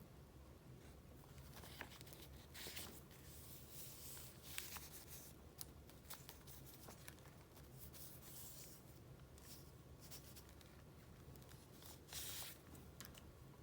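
Faint rustling of paper being handled and flipped through: several short swishes a few seconds apart, with small light taps, the longest swish near the end.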